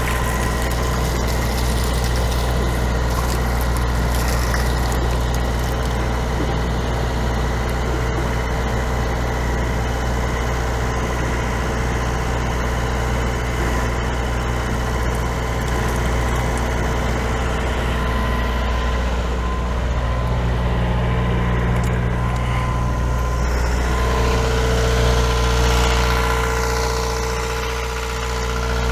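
Perkins 4-108 four-cylinder marine diesel running steadily at idle. Its note shifts about two-thirds of the way through, with some brief gliding tones near the end.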